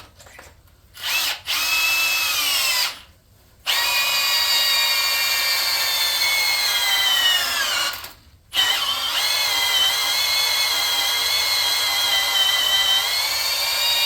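Power drill turning a core drill through a guide into a stripped head-bolt hole in a Chevy LS aluminium block, drilling to full depth until the collar bottoms on the guide. It runs in four runs, two short then two long, with brief stops between, its whine sagging in pitch as the cutter loads up.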